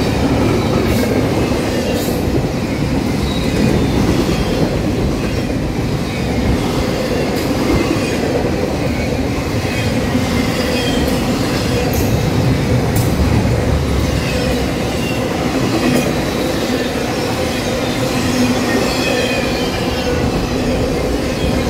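Double-stack intermodal freight cars and trailer flatcars rolling past: a steady rumble of steel wheels on rail, with occasional sharp clicks and thin high wheel squeals.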